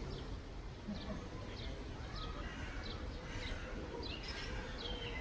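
Small birds chirping: many short, quick chirps that fall in pitch, repeated irregularly over a steady low background noise.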